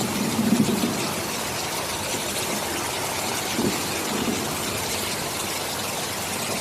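Steady heavy rain, an even hiss. A low rumble of distant thunder fades in the first half-second and swells briefly again a few seconds in.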